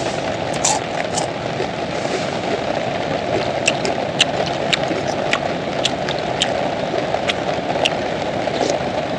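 Heavy rain falling steadily on a tent or tarp, a dense even patter with a scattering of sharper single drop hits.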